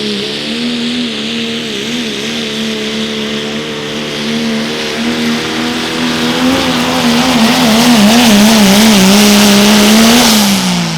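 Diesel pickup truck engine held at full throttle pulling the sled down the clay track at a truck pull. Its note wobbles and gets louder in the second half, then drops in pitch and level near the end.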